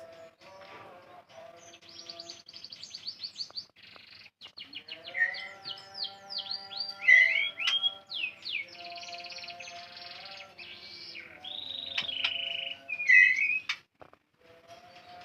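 White-rumped shama (murai batu) chirping and whistling in quick series of high notes and swooping calls, the loudest about seven and thirteen seconds in, with instrumental background music underneath.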